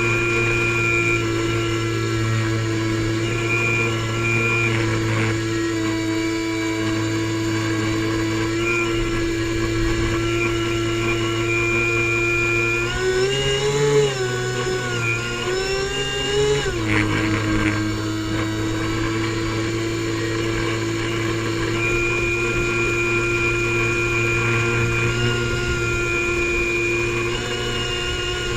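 Airboat engine and propeller running steadily at a constant pitch. About halfway through the pitch rises and wavers for a few seconds, then drops back to the same steady note.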